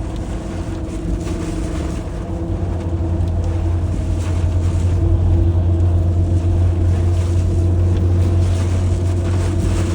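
Car engine and road noise heard from inside the cabin while driving: a steady low hum with a light hiss over it, getting a little louder about three seconds in.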